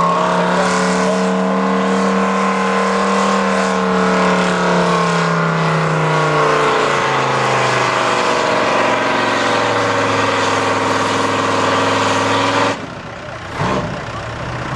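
Pulling truck's engine at high revs under full load, its pitch holding high and then dropping to a lower, steady note about six and a half seconds in. The sound cuts off suddenly near the end.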